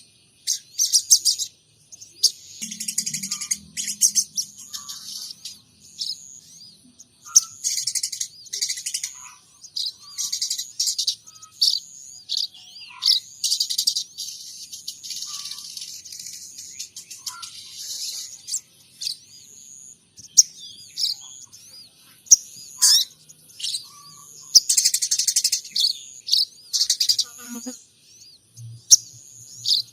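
Sogon trotol songbird singing in rapid, chattering phrases of high chirps and trills with short pauses between them, its song full of mimicked munia and house sparrow calls.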